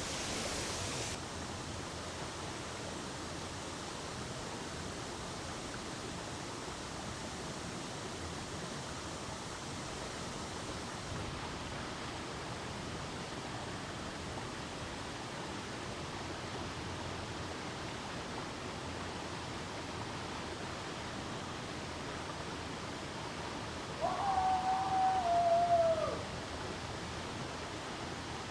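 Steady rushing of a waterfall. About 24 seconds in, one long high call, about two seconds long, rises slightly, holds and then drops away; it is the loudest sound.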